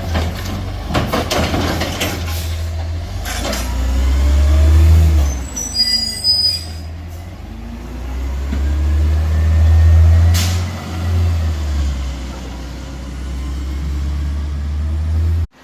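Garbage truck engine running loud and rising twice in revs, with knocks and clunks early on and a short high squeal about six seconds in.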